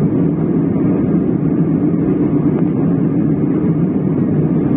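Steady drone of an airliner's engines and airflow heard inside the passenger cabin in cruise.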